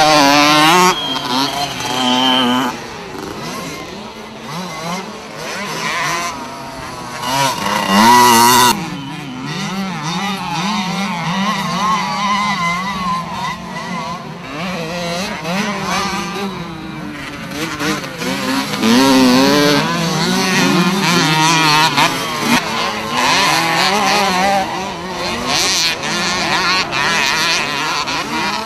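Several 65 cc two-stroke minicross motorcycles racing, their engines revving up and down as the riders work the throttle; one passes loudly just after the start and another about eight seconds in.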